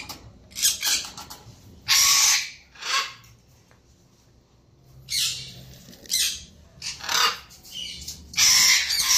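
Pet parrots squawking: a series of short, harsh calls every second or so, the loudest about two seconds in and a longer one near the end.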